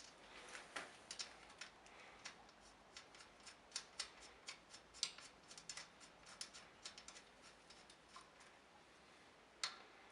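Faint, irregular clicking and tapping of small hard objects being handled, a few clicks a second with a slightly louder one about halfway through and another near the end.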